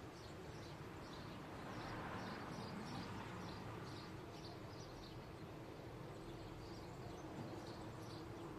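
Small birds chirping, short high chirps repeating two or three times a second, over a faint steady background hum. A soft swell of broader noise rises and fades around two to three seconds in.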